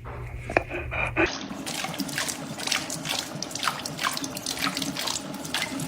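Water running and splashing, with many small sharp splashes, starting abruptly about a second in after a low hum cuts off.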